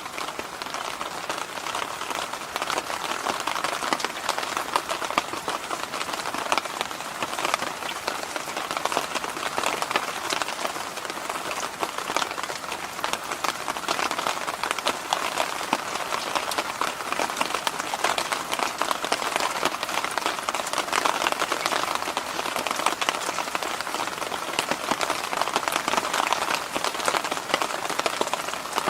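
Electric fan running steadily: a continuous airy rush with a fine crackle all through.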